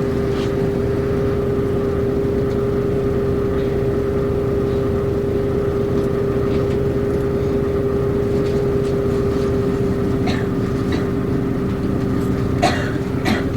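Route bus heard from inside the cabin: the diesel engine's steady drone with a steady whine over it, and a few light rattles near the end.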